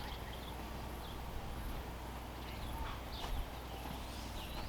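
Outdoor rural ambience: a steady low hum and a faint high pulsing, with a few short bird chirps in the second half and a couple of faint clicks about three seconds in.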